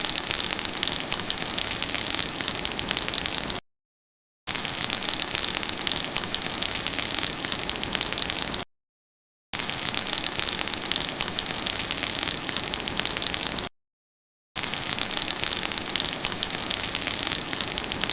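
Rain and fireplace ambience: an even hiss of rain with fine crackling through it. It cuts to total silence for just under a second three times, about every five seconds.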